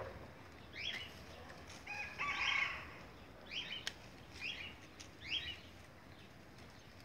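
A bird calling in a series of short, high calls about once a second, with a longer, louder call about two and a half seconds in. There is a single sharp click near four seconds in.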